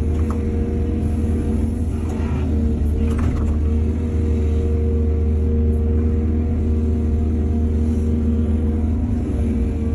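Excavator's diesel engine running steadily, with brief rattling noises about two and three seconds in.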